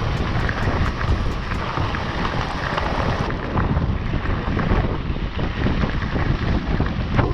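Wind buffeting the microphone: a steady, rumbling noise with no clear tones.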